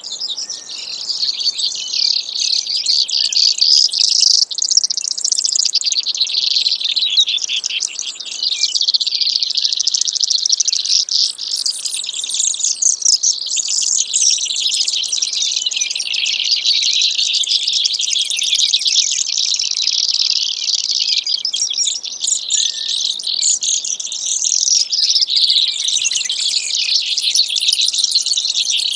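Brewer's sparrow song: a long, unbroken run of high, rapid trills that shift in speed and pitch.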